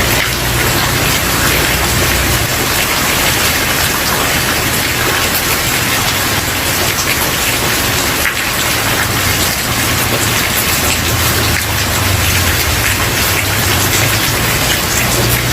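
Steady rain falling on a wooden porch, an even hiss of many drops. Underneath, a low rumble fades a couple of seconds in and comes back near the end.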